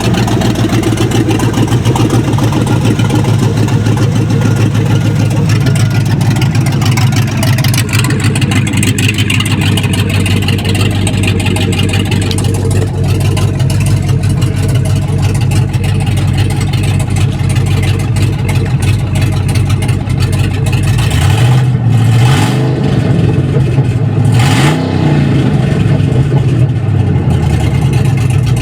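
GM 6.0-litre L96 Vortec V8 running steadily, then revved twice in the last third, its pitch rising and falling back each time.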